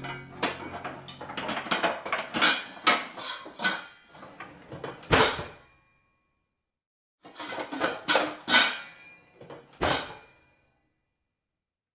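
A run of short, sharp clattering knocks, several a second, breaking off after about five and a half seconds, then a few more knocks that stop about ten seconds in.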